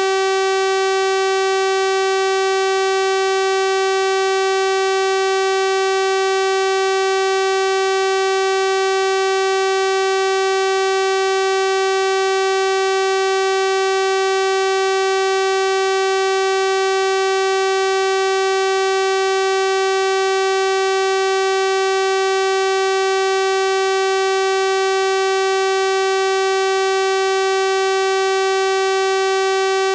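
Steady synthesized 384 Hz sawtooth-wave tone, a single unchanging buzzy pitch rich in overtones.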